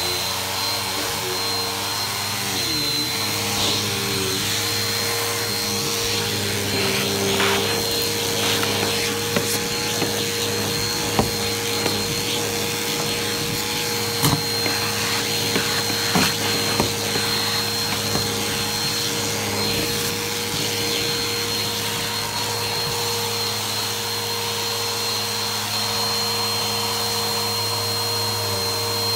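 Vacuum cleaner running steadily over a rug, with a constant motor hum and a thin high whine. Scattered sharp clicks come through in the middle stretch.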